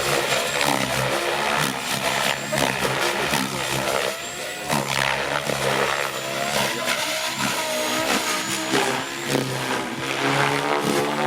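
Radio-controlled helicopter flying 3D aerobatics, its rotor and motor sound rising and falling in pitch as the throttle and manoeuvres change.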